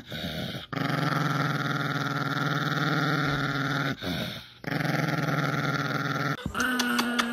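A dog growling on cue in long, steady, drawn-out growls, its "motorcycle" trick, broken by two short pauses. Near the end it gives way to a few sharp clicks and a different sound.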